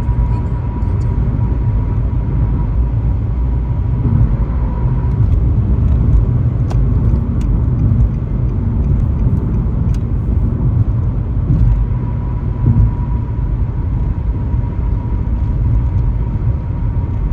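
Car driving at road speed, heard from inside the cabin: a steady low rumble of tyres and engine with a faint steady hum above it and a few light clicks.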